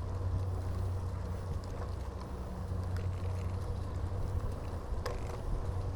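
Steady low rumble of a bicycle in motion, tyres rolling on the path, with a light click about three seconds in and another about five seconds in.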